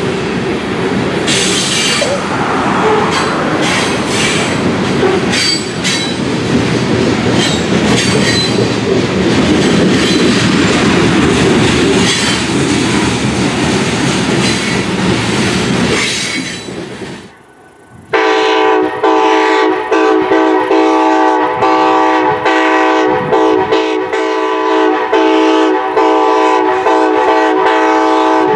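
A freight train rolling past, its wheels clattering and clicking over the rail joints. About two-thirds of the way in the sound cuts, and a locomotive air horn sounds one long, steady blast of several notes at once until the end.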